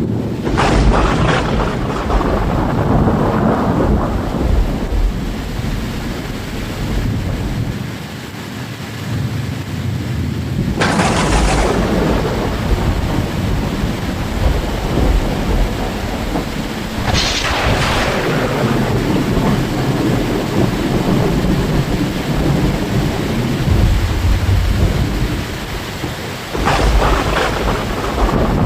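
Rain falling steadily during a thunderstorm, with four sudden thunder cracks: near the start, a little over a third of the way in, past halfway and near the end. Each crack trails off into low rumbling.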